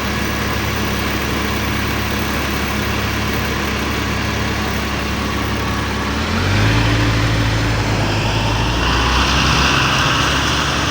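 LiAZ-5292 city bus engine running steadily as heard from inside the cabin. About six seconds in, its pitch steps up and it gets a little louder, with more hiss rising toward the end as the engine picks up speed.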